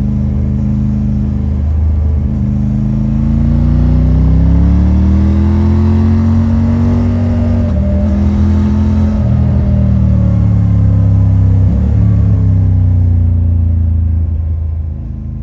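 Triumph Tiger 900 Rally Pro's 888 cc inline-triple engine through its stock exhaust, pulling under load. The engine note climbs slowly and drops back at each gear change, about three times, then fades near the end.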